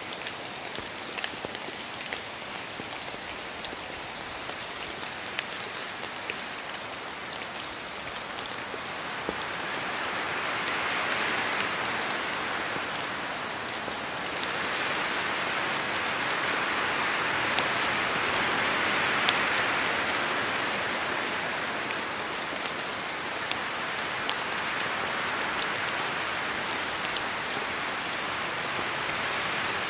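Steady rain falling in a forest, many individual drops pattering, with two broad swells of rushing noise that build and fade in turn.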